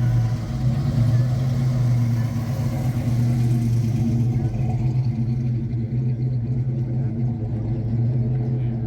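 Car engine idling with a steady low drone.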